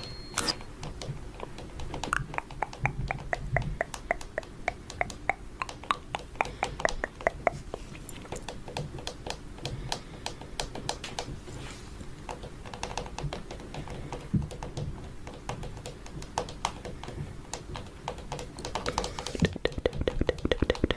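Fingernails tapping lightly and quickly on a camera close to the microphone, in runs of several sharp taps a second.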